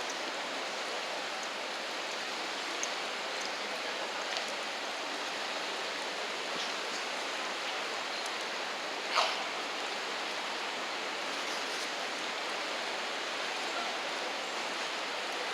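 Steady, even hiss of riverside outdoor ambience, with one short sharp sound about nine seconds in.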